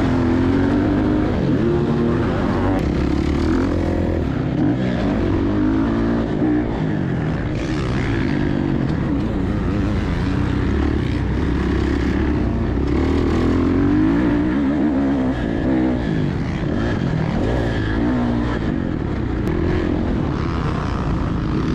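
Dirt bike engine running hard on a motocross track, its pitch rising and falling again and again as the rider works the throttle and shifts.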